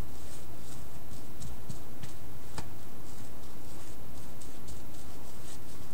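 A brush spreading matte Mod Podge over a mixed media painting to seal it: a string of soft, short swishing strokes, with a sharp click about two and a half seconds in, over a steady low hum.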